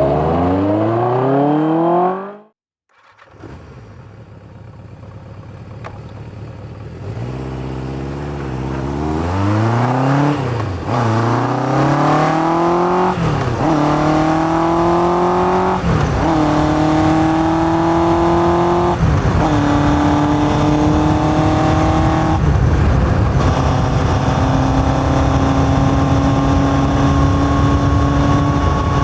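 Yamaha XJ550 air-cooled inline-four, with open K&N pod filters and a 4-into-1 exhaust, revving up under way. The sound cuts out for about a second near the start, then fades back in. The engine then accelerates hard through the gears, its pitch climbing and dropping back at each of several upshifts, and settles into a fairly steady cruise for the last several seconds.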